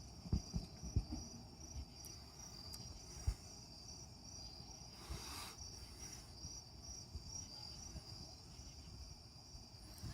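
Insects chirping in a steady, fast pulsing high trill, with a few soft low bumps in the first second.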